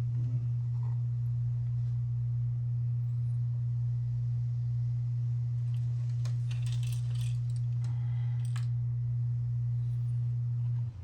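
A steady low hum that cuts off suddenly near the end. Partway through comes a brief clatter and rattle of small plastic model parts being handled.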